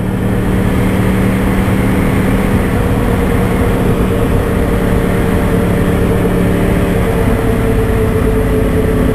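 2013 Yamaha R1's crossplane inline-four engine running at a steady cruise, its note holding an even pitch over a rush of wind noise.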